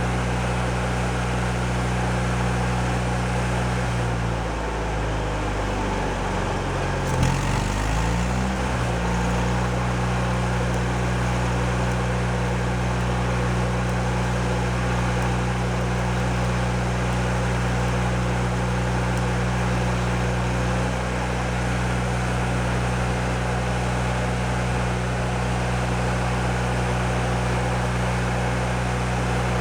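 An engine running steadily. Its speed dips and recovers between about four and nine seconds in.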